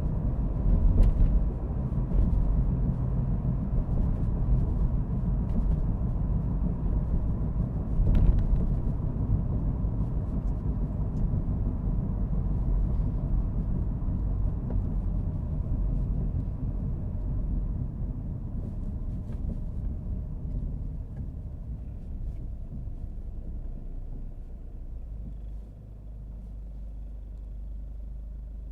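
Car driving on a road: steady low tyre and engine rumble, with short bumps about a second in and about eight seconds in. The rumble dies down over the last third and settles to a quieter steady hum near the end.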